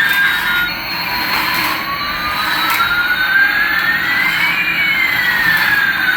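Electronic jet-engine sound effect from a toy airliner: a whine that rises slowly in pitch for about four seconds, then turns and falls, over a steady rushing hiss.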